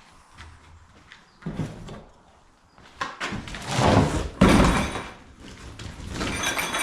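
Cardboard box being emptied of exhaust parts by hand: rustling and scraping with a few knocks, loudest around the middle.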